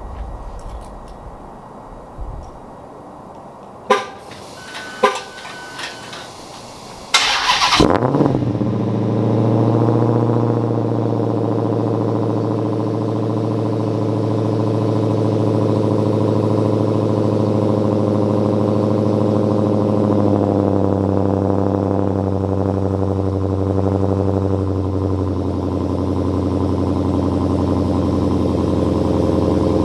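Stock 2016 Dodge Challenger SRT Hellcat's supercharged 6.2-litre Hemi V8 cold-starting through its stock exhaust after sitting a few days. A couple of sharp clicks come first, then the engine fires with a loud burst about seven seconds in and settles into a steady high cold idle, which eases down slightly about twenty seconds in.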